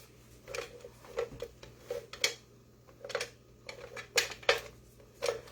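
Kitchen utensils clinking and knocking against pots and dishes: a dozen or so sharp, irregular clacks.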